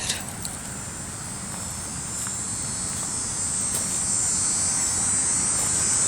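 A steady high-pitched insect buzz that grows gradually louder, with a brief click at the very start.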